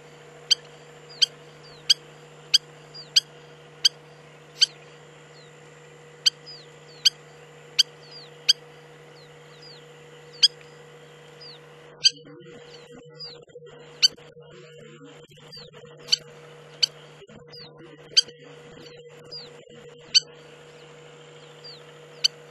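Spur-winged lapwing giving short, sharp, high calls, about one and a half a second in runs and then more spaced out, over a steady low hum.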